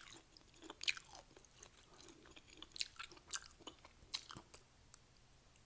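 Close-up chewing of crunchy Doritos nacho chips: irregular crisp crunches, several a second, that die down about four and a half seconds in.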